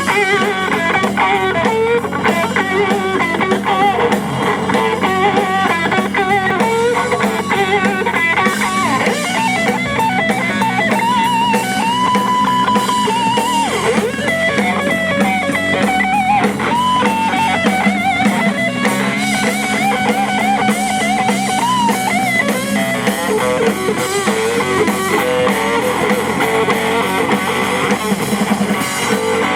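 Live blues-rock band playing an instrumental break: an electric guitar lead with bent and held notes over a drum kit.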